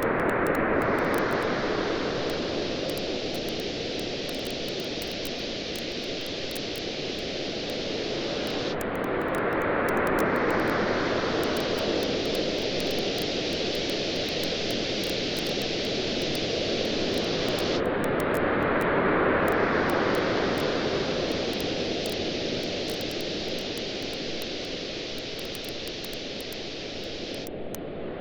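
Ocean waves as a steady rushing wash that swells and eases about every nine seconds, with sparse faint crackles from a campfire over it.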